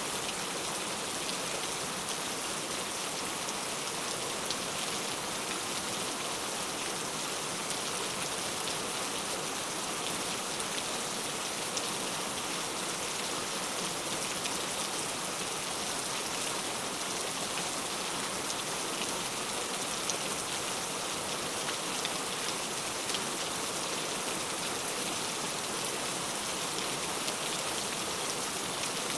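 Steady rain falling, an even patter of drops with occasional individual drops standing out.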